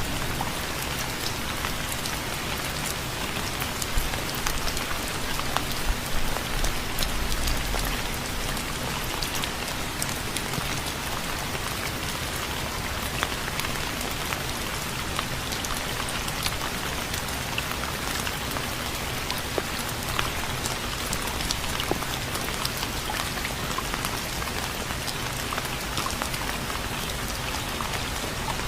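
Steady rain falling, with many separate drops pattering on a surface through a constant hiss.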